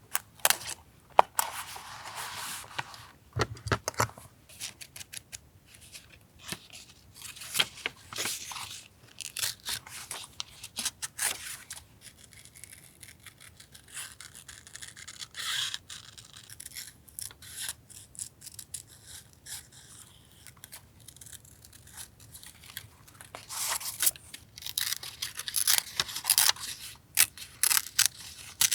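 Paper collage materials being handled, torn and cut: irregular rustling, tearing and snipping with small sharp taps, busiest near the end.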